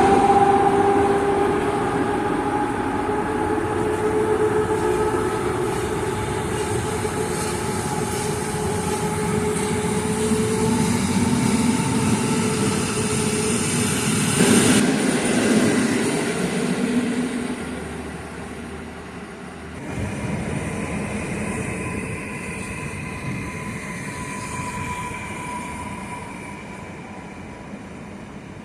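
A train running along the tracks past the listener, with a steady two-note whine that fades over the first half. A sharp loud moment comes about halfway through. The noise then dies away, and a fainter high steady tone carries on from about two-thirds of the way in.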